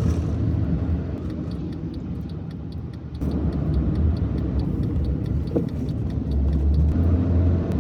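Car cabin noise, a steady low rumble of the car running or moving, with a turn-signal indicator ticking evenly from about three seconds in, stopping shortly before the end.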